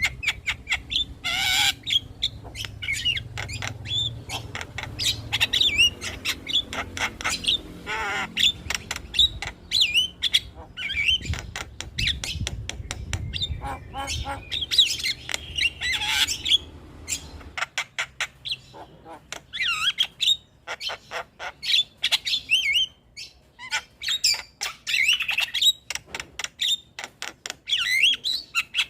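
Javan mynas (jalak kebo) calling in a dense, continuous run of harsh squawks, rapid clicks and short whistled notes. A low background hum under the calls stops about two-thirds of the way through.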